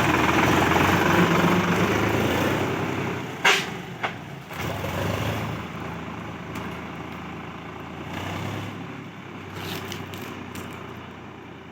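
Solis 5055 tractor's diesel engine running, loud at first. Two sharp clanks come about three and a half and four seconds in, after which the engine sound drops and slowly fades.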